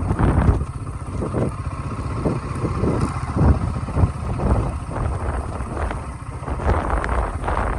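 A vehicle driving, a low rumble with wind buffeting the microphone in irregular gusts.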